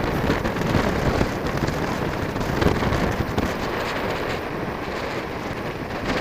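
Strong wind blowing hard across the microphone: a dense, steady rushing noise with crackling buffets.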